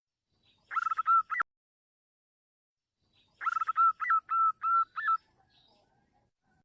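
Zebra dove (perkutut) cooing, used as a lure call: two bouts of quick, clear staccato coo notes with small upward flicks, a short bout about a second in and a longer one around the middle.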